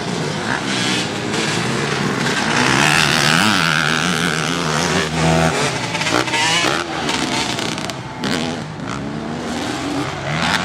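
Motocross bike engines revving up and down as they are ridden around the track, the pitch rising and dropping repeatedly as they accelerate and shift.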